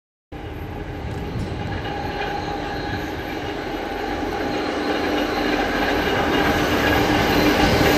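Loaded coal train hauled by two VL class diesel locomotives passing, a steady rumble of engines and wagons growing louder as it approaches, with a few steady tones on top. The sound cuts in abruptly just after the start.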